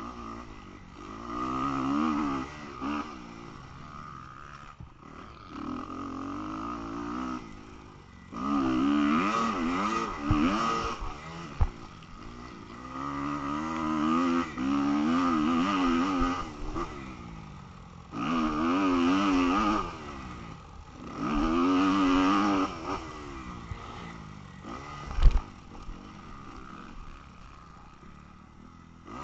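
Motocross bike's 250 engine revving in repeated bursts of one to three seconds, the throttle opening and closing with quieter running between them. A single sharp knock near the end.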